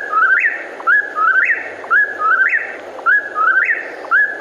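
Whip-poor-will singing its whistled "whip-poor-will" call, repeated about once a second, each phrase ending in a sharp upward slur.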